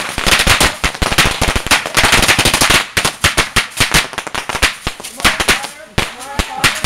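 A box of fireworks going off: a rapid, continuous string of sharp bangs and crackles with a hissing rush underneath, thinning out briefly near the end before picking up again.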